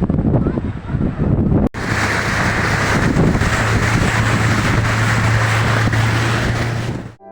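Gusty wind buffeting the microphone. After an abrupt cut just under two seconds in, a motorboat engine runs steadily with a low hum under the wind noise.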